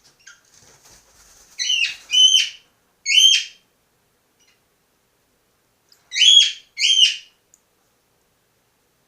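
Cockatiel calling: three short whistled calls in quick succession, then after about three seconds two more.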